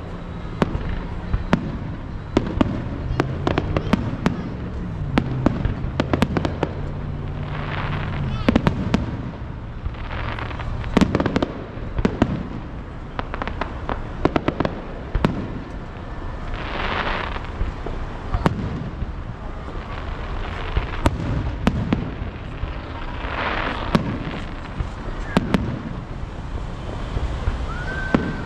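A fireworks display going off in quick succession: many sharp bangs of shells bursting, mixed with several longer crackling, hissing bursts.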